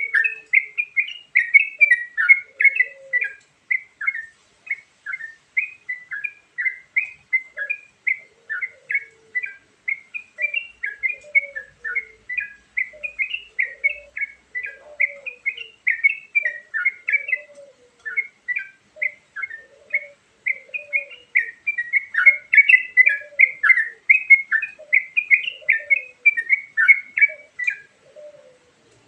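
Yellow-vented bulbul (trucukan) song, used as a bird-trapping lure recording: a rapid, unbroken string of short chirping notes, with a fainter, lower phrase repeating about once a second underneath. The song stops shortly before the end.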